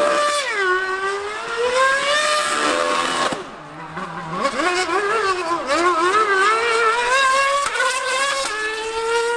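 A racing engine running at high revs on a circuit. Its pitch climbs and drops back sharply at each gearchange several times, then fades for about a second partway through before climbing again.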